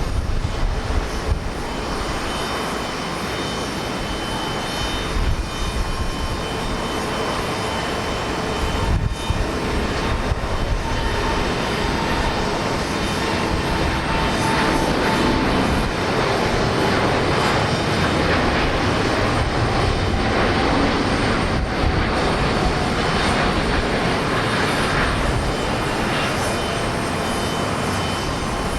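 Large jet airliner's engines at takeoff power: a continuous jet noise with faint whining tones that drift slightly in pitch, growing somewhat louder from about halfway through. Strong gusty wind buffets the microphone with an uneven low rumble.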